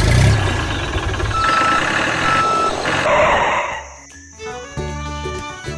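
Vehicle engine rumbling, with two short reversing beeps about a second apart. The engine sound fades about four seconds in, and upbeat music with plucked strings takes over.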